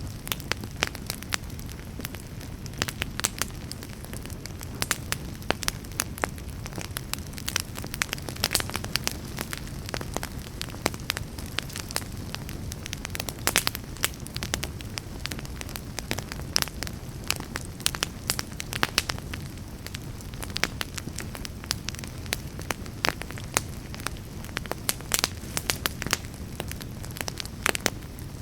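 Wood fire burning in a fireplace: a low, steady rumble of flame with frequent sharp crackles and pops from the burning logs.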